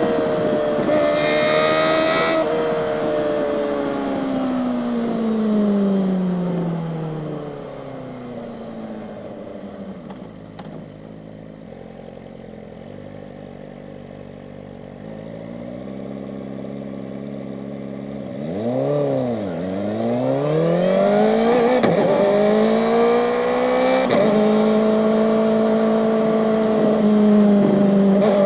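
Kawasaki ZX-4RR's 399 cc inline-four engine: revs fall away as the bike slows, it idles for several seconds, then a quick throttle blip, and the revs climb again as it pulls away and settles to a steady speed. A brief high-pitched tone sounds about a second in.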